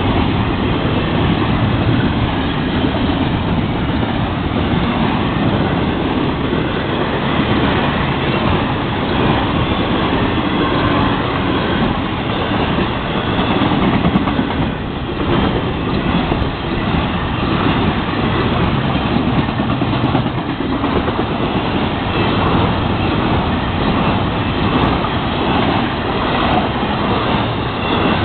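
Florida East Coast Railway intermodal freight train's cars rolling steadily past at close range: a continuous loud noise of steel wheels running on the rails.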